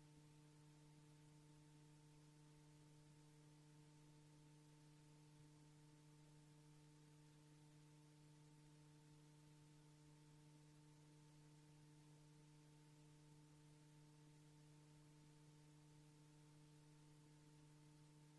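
Near silence: a faint steady hum over hiss, with no live sound of the scene.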